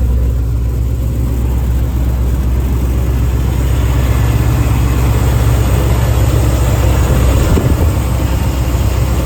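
1977 Chevrolet K10's 454 big-block V8 running steadily at idle, a low, even rumble.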